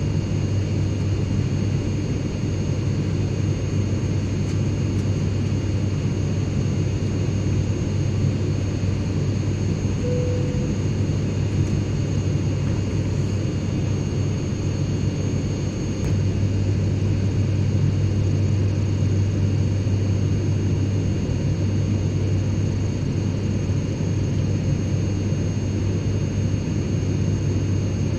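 Airplane cabin ambience: a steady, deep engine drone and rush of air with a faint high whine running through it. A brief faint tone comes about ten seconds in, and the drone grows slightly louder about sixteen seconds in.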